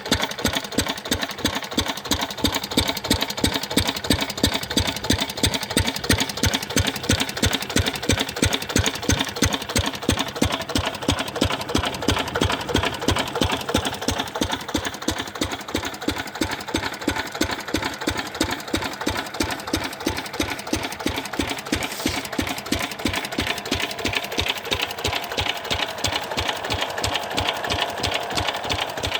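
A 10 hp diesel engine running steadily at an even speed, with a regular rapid knocking beat.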